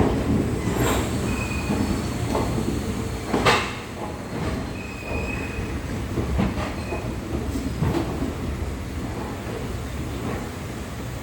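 Train moving slowly over the rails, with a steady low rumble, irregular clanks from the wheels and couplings, and a few short high wheel squeals. The loudest clank comes about three and a half seconds in.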